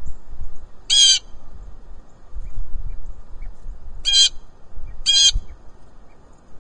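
Blue jay giving three short, harsh jay calls: one about a second in, then two close together near the end.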